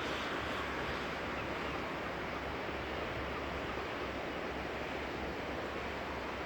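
Steady rushing noise of wind and sea surf, with a low rumble of wind on the microphone.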